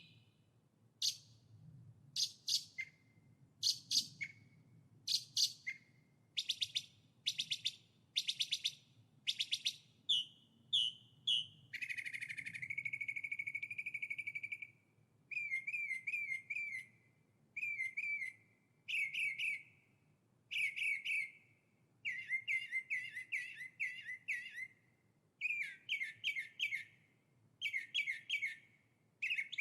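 A songbird singing in short, bright, high phrases about a second apart. Near the middle it holds one long unbroken trill for about three seconds, and later it sings quick runs of repeated notes.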